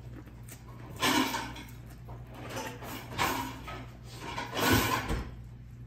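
Eating sounds close to the microphone: biting and chewing corn on the cob, in three louder crunchy bursts about a second, three seconds and nearly five seconds in.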